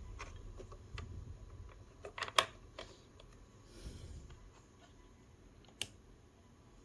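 A few small, sharp clicks and knocks, like handling or pressing buttons on equipment, scattered over a faint low hum. The loudest is a quick double click about two and a half seconds in, and another comes near the end.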